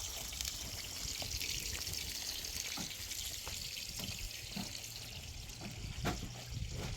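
Running water, a steady hiss with a few light knocks scattered through it.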